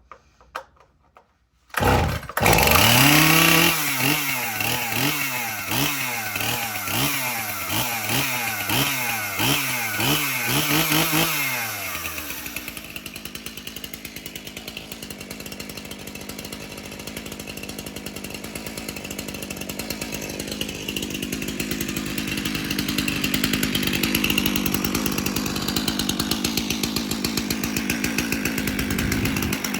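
Stihl MS291 two-stroke chainsaw cold-starting: a couple of sharp clicks, then the engine catches about two seconds in and revs high. The throttle is blipped about once a second for several seconds, then it drops to a steady idle about eleven seconds in.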